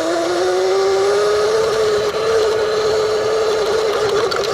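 Sur-Ron Light Bee electric dirt bike's motor and drivetrain whining as it speeds up, rising in pitch over about the first second and then holding steady at cruising speed, over a rush of wind and road noise.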